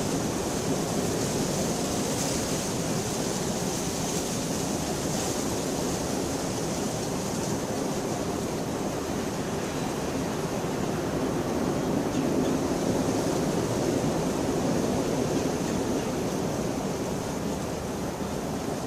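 Steady rain falling, a continuous even hiss, with a slight swell in the low end about two-thirds of the way through.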